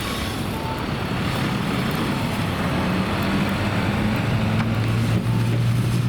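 Sapporo streetcar sasara snow-sweeper car running along the track, its rotating brooms and motors giving a dense rushing noise. A low hum builds and grows louder from about halfway in as it comes closer.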